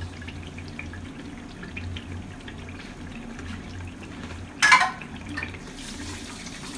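Chili paste frying in oil in a wok, sizzling with scattered small pops over a low steady hum. A brief loud clatter about four and a half seconds in.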